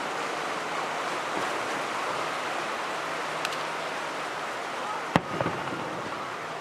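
Steady rushing wash of surf, with a single sharp firework bang about five seconds in, followed by a few smaller crackles.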